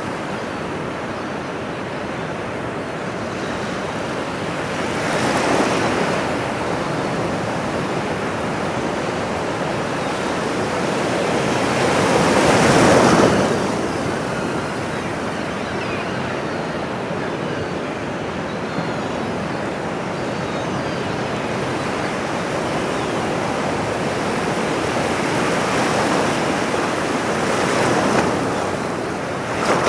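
Ocean waves washing onto a shore: a steady surf hiss that swells and falls with each wave, the biggest one breaking about halfway through.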